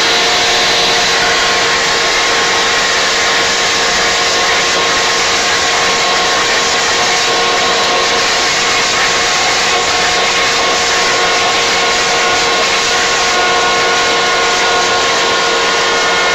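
Electric leaf blower running steadily: a loud, even rush of air with a steady whine, blowing at close range.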